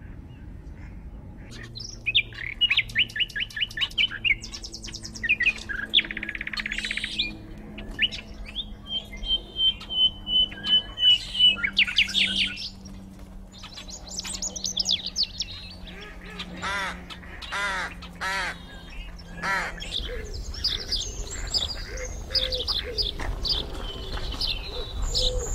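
Several birds calling and chirping, a mix of short varied calls and a steady trill, with a few harsher calls repeated a little past the middle.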